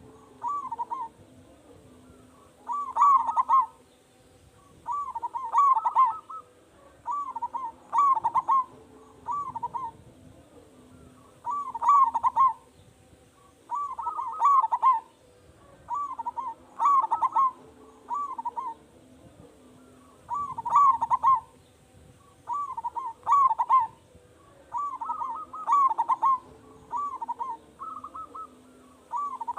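Zebra dove (perkutut) cooing: short rolling phrases of quick coos, repeated over and over about every one to two seconds.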